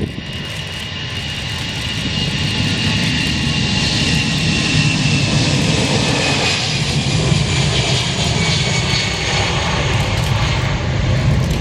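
Airliner engines running as the plane passes close by. A deep rumble grows louder over the first few seconds and then holds, under a high whine that slowly drops in pitch.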